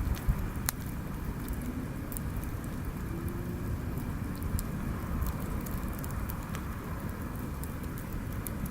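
Wood fire burning, with scattered small crackles and pops over a steady low background rumble.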